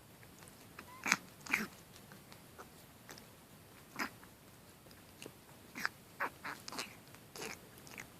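Wet Persian kitten snorting through its nose in short, pig-like snorts, about eight in all: two about a second in, one midway and a quick cluster near the end. The snorting comes on when the kitten is wet.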